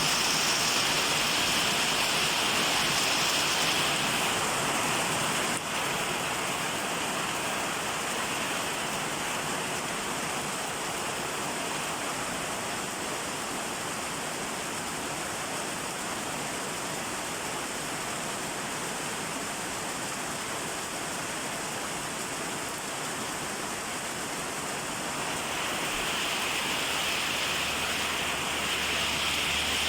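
Steady rain falling, an even hiss that is a little louder at the start and again near the end. A low hum comes in near the end.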